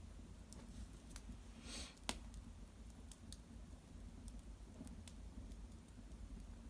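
Wood fire in an irori hearth crackling with sparse, sharp pops, the loudest about two seconds in, over a faint low hum.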